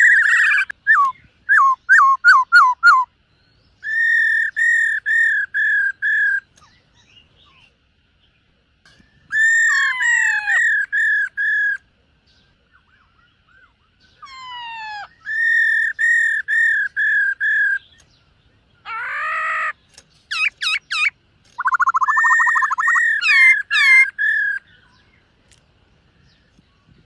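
Black-throated laughingthrush singing: loud phrases of five or six quick, looping whistled notes, separated by pauses of one to two seconds, mixed with fast downward-sliding whistles and one short harsh note about two-thirds of the way through.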